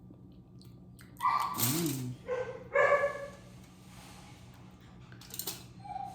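A dog barking, a few short barks between about one and three seconds in.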